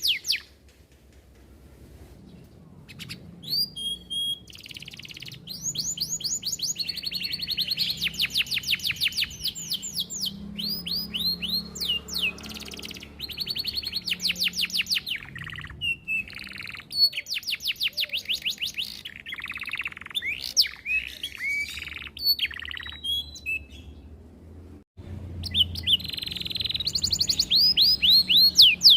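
Domestic canary singing: fast rolls of repeated sweeping chirps and trills, phrase after phrase with short pauses between, starting about two seconds in.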